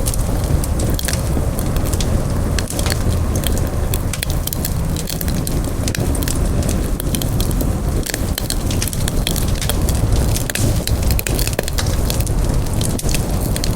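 Campfire burning, with many sharp crackles and pops over a steady low rush of flame.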